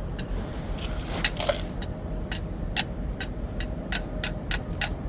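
A vehicle engine running with a steady low rumble, under a run of sharp clicks that speed up to about three or four a second in the second half.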